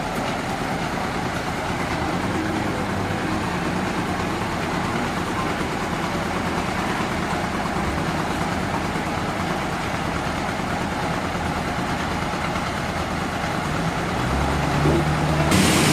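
Sawmill machinery running with a steady engine drone. Near the end the engine note grows louder and a high hiss comes in.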